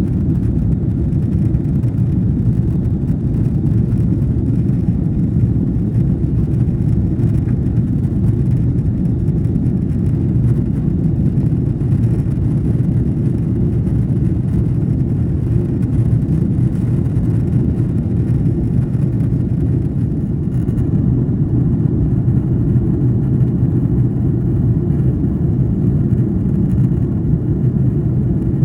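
Steady low rumble of an Airbus A330-200's engines and airflow heard inside the cabin, with no rise or fall in pitch.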